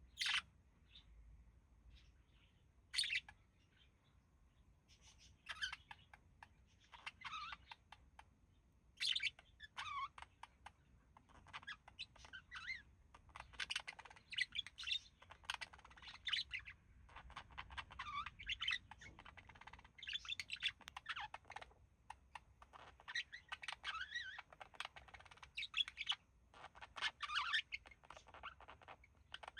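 Pair of budgerigars chirping and warbling. A few separate chirps at first, then a continuous run of chattering warble from about five seconds in.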